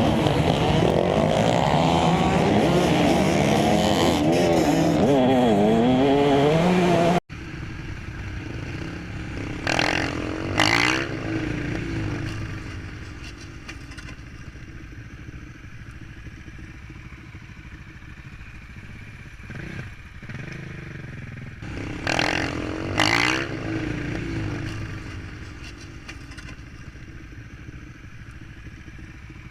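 A pack of motocross bikes revving hard together, many engine notes overlapping. This cuts off suddenly to a single motorcycle engine that swells loudly twice as it goes by, with quieter engine sound in between.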